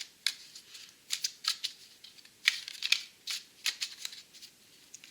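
Oracle cards being handled and laid out: a quick, irregular series of crisp snaps and slides of card stock, about a dozen in a few seconds.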